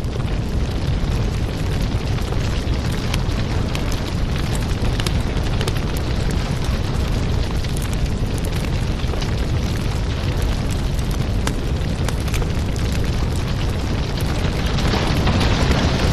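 Fireplace fire burning: a steady low rumble with scattered sharp crackles and pops, the hiss growing a little brighter near the end.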